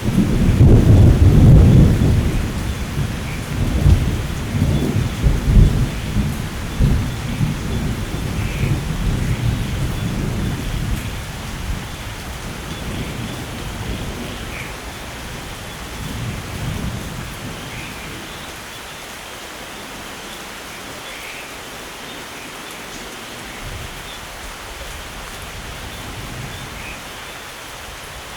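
Rain falling steadily, with a loud peal of thunder that breaks right at the start and rolls on in waves for about ten seconds before dying away, leaving only the rain.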